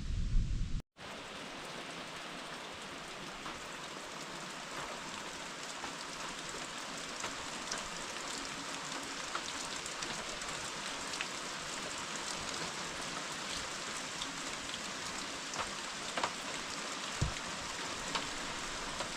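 Steady heavy rain: an even hiss with scattered ticks of individual drops. In the first second a low rumble of thunder runs on until a sudden cut.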